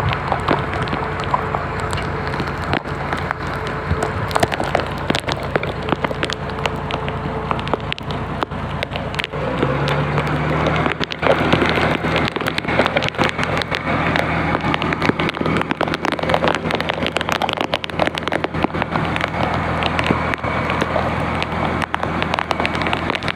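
An engine running steadily under a dense crackling patter; about ten seconds in the engine's note shifts and grows louder.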